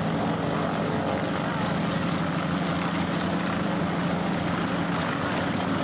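Aircraft engine running with a steady, even drone and a low hum.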